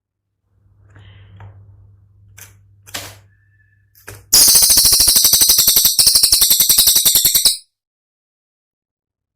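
Cililin songbird giving a loud, high-pitched rapid-fire rattle (a "tembakan" burst) of close-set sharp notes, lasting about three seconds with a brief break in the middle. It starts about four seconds in, after a faint low hum and a few soft clicks.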